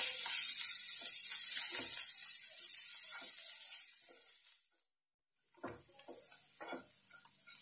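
Onion, tomato, green chilli and coriander tadka sizzling in oil in a non-stick pan, with a wooden spatula scraping through it as it is stirred. The sizzle fades away about four and a half seconds in; after a short silence a few light spatula scrapes remain.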